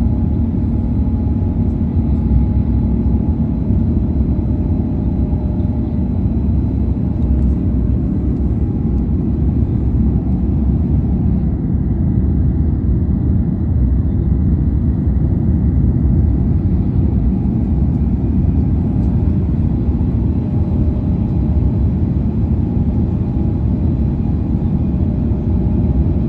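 Airbus A350-900 jet engines and airflow, a steady low rumble with a faint hum of steady tones above it that holds at one level throughout.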